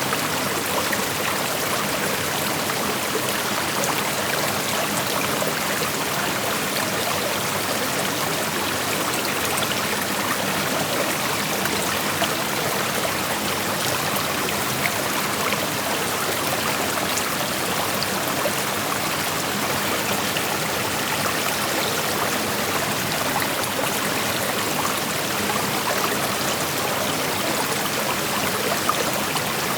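Shallow creek flowing steadily, a dense, even rush of water with small splashes and trickles over the stones.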